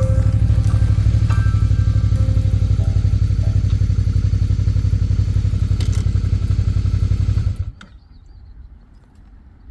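Motorcycle V-twin engine running with an even, pulsing low rumble, then cutting off suddenly about seven and a half seconds in as it is switched off.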